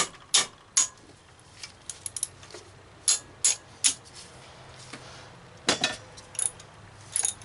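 Socket ratchet clicking in short groups of slow, even strokes, about two or three clicks a second, as an engine bolt is worked loose.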